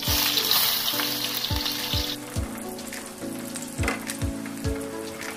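Sliced shallots sizzling in hot cooking oil in an aluminium wok: a loud hiss as they go in, easing after about two seconds to a steadier sizzle as they are stirred.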